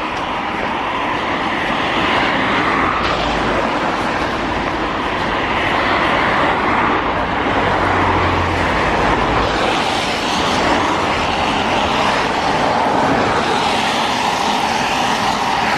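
Steady rushing running noise of a moving vehicle, with a low hum swelling for a second or two about eight seconds in.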